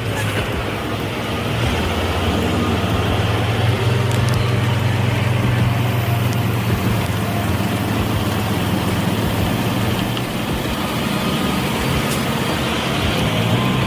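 Heavy truck's diesel engine running steadily with a deep drone, picking up a little about two seconds in.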